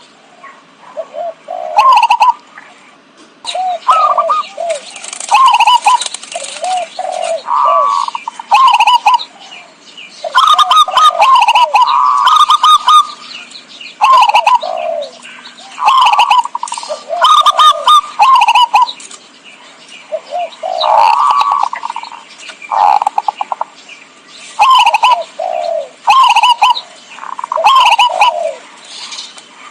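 Zebra doves cooing: short rippling, staccato coo phrases repeated every second or two, several birds overlapping.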